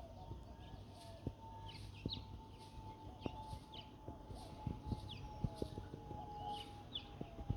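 Small birds chirping now and then, short quick notes gliding up and down, over faint scattered ticks and rustles and a steady faint high hum.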